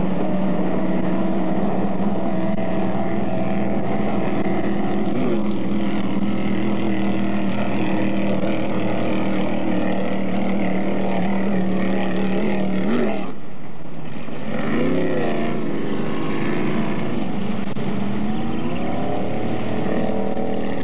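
Inboard engine of a rebuilt 1976 Kachina jetboat running on the water with a steady note. About two-thirds in, the note drops away briefly and wavers, and near the end it rises as the throttle opens.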